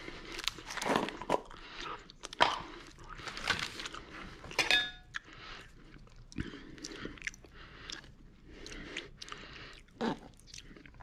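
Close, wet mouth sounds of someone chewing a piece of milk chocolate, mixed with irregular clicks and rustles of handling a plastic jar of marshmallow fluff. About halfway through there is a brief squeak as the jar's plastic lid is twisted off.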